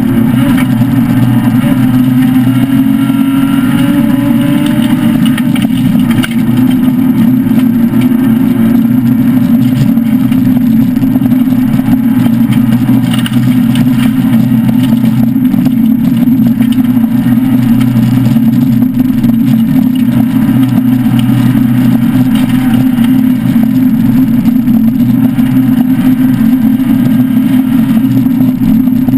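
Citroën SM Bandama rally car's Maserati V6 engine running hard and steady under load, heard from inside the cabin as a loud, continuous drone, with the pitch rising slightly a few seconds in.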